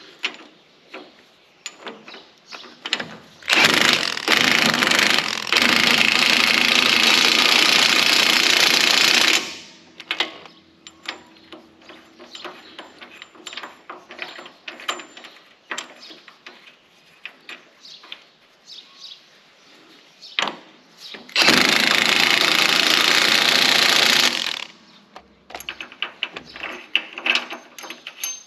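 Impact wrench run in two long bursts, about six seconds and then about three seconds, tightening the nuts on newly fitted bracket bolts. Light clinks and knocks of tools and parts come between the bursts.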